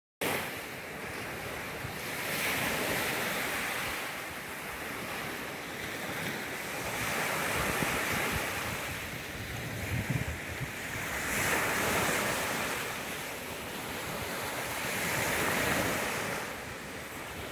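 Lake waves breaking on the shore, the wash swelling and easing about every four seconds, with wind buffeting the microphone.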